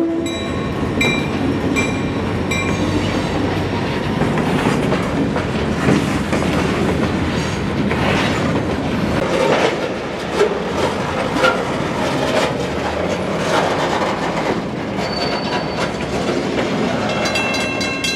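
Florida East Coast Railway freight train rolling past close by, its wheels clattering over the rail joints in a steady stream of clicks and clanks. A grade-crossing bell rings in repeated strikes during the first few seconds and again near the end.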